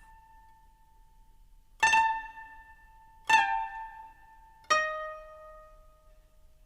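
Music on a plucked string instrument: three single notes about a second and a half apart, each ringing out and fading, the last one lower in pitch.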